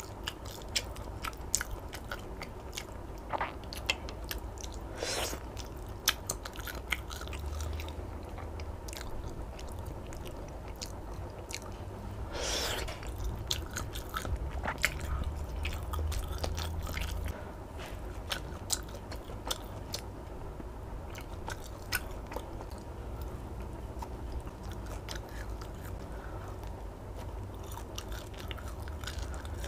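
A person chewing and biting soft food, compressed rice cakes (nasi himpit) and chicken satay, with many small sharp mouth clicks and smacks over a steady low hum.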